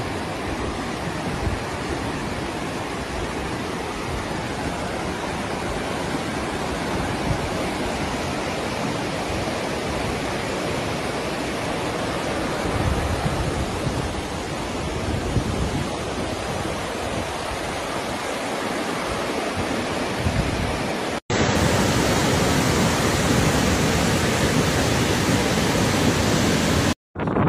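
Steady rushing noise of the flood-swollen Kag river in spate, with two brief dropouts near the end.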